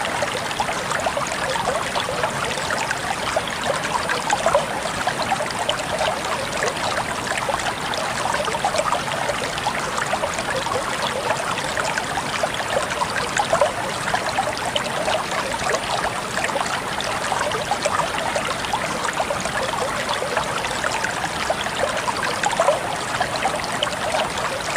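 Clear shallow stream water trickling and babbling over and between rocks, a steady bubbling splash.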